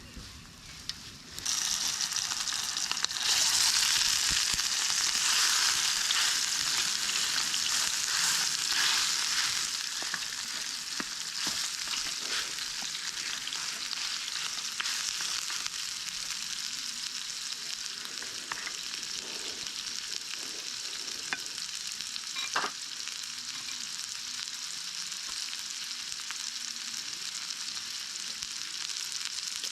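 Food sizzling in hot oil in a pan. The sizzle starts suddenly about a second in and is loudest for the first several seconds, then settles to a steady frying hiss with a few pops.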